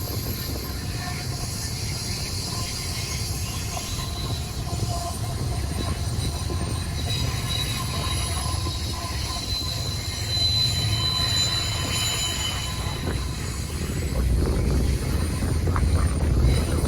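Freight train cars rolling by, their wheels squealing against the rails in thin high tones over a steady low rumble. The rumble grows louder near the end.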